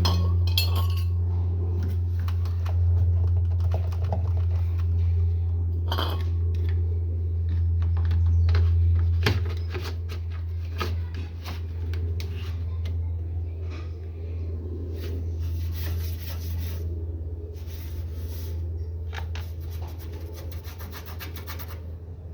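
Hand scraping and rubbing on a washing machine's parts during cleaning, in irregular strokes with scattered clicks, over a steady low hum.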